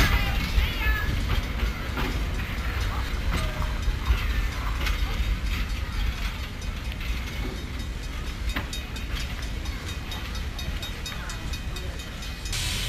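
Railway carriages and an open passenger wagon rolling past on the track: a steady low rumble with a rapid run of wheel clicks over the rail joints.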